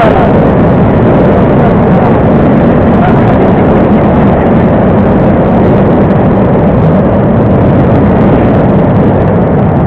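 Pit bike engine racing, heard loud and steady and heavily distorted through an onboard action camera's microphone, with wind rush.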